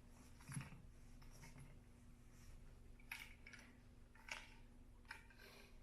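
Near silence with a steady low hum and a handful of faint, short clicks and taps from plastic parts being handled as a sprinkler valve's base is screwed down.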